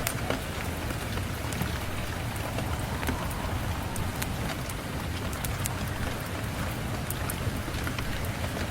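Steady rain, mixed with the scattered sharp crackles of a wood fire, over a low rumble.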